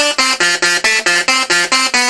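Solid-state Tesla coil (SSTC) playing a melody through its spark discharge: a quick run of short buzzy notes, about six a second, stepping up and down in pitch.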